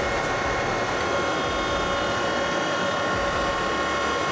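A power woodworking machine running with a steady whine, several even tones held over a noisy rush.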